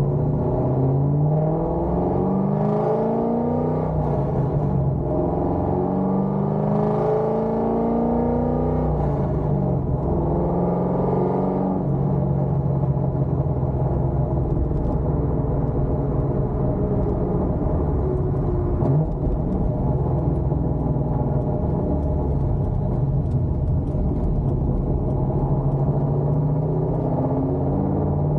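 Cammed Corvette C5 Z06's 5.7-litre LS6 V8 with headers and Borla ATAK mufflers, the exhaust note rising and falling in pitch for about the first twelve seconds, then holding a steady pitch as the car cruises at constant engine speed.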